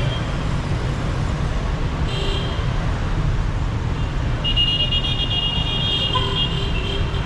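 Dense city traffic running: a steady low rumble of engines, with a short car-horn toot about two seconds in and a longer horn blast held for about two and a half seconds from around the middle until near the end.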